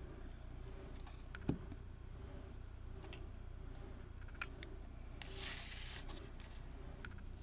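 Paper pieces being handled and pressed down on a craft table: small clicks and a tap about a second and a half in, then a brief rustle of paper around five seconds in, over a low steady room hum.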